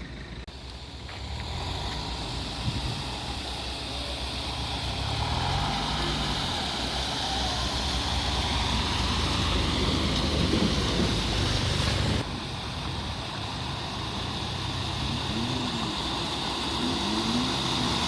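A car driving through floodwater: the engine runs under a steady rush of water noise that builds over the first couple of seconds. There is a sudden break in the sound about twelve seconds in.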